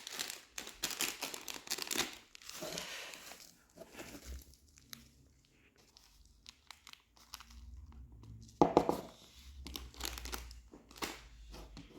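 Crinkling and rustling of a sugar packet being handled and poured, in irregular bursts with a short pause midway.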